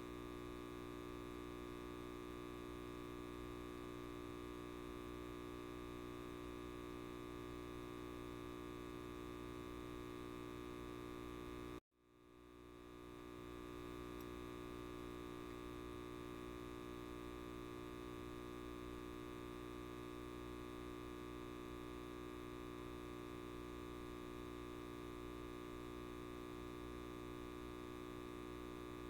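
Light bulb giving a steady electrical buzz. About twelve seconds in it cuts out completely for an instant, then fades back up to the same buzz.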